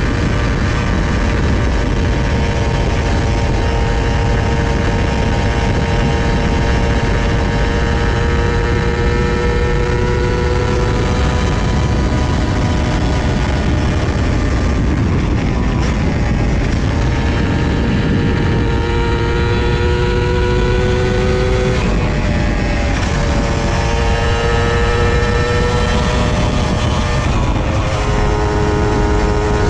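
Honda Dash 125's two-stroke single-cylinder engine under way, its pitch climbing slowly as the bike pulls, then dipping sharply twice in the last third, as at gear changes or a roll-off of the throttle. A heavy low rumble of wind on the microphone runs under it.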